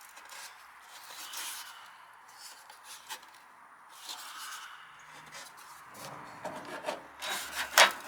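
Sheet-metal downspout pieces scraping and rubbing as one is crimped and worked into the other, with scattered clicks and a sharp clack near the end.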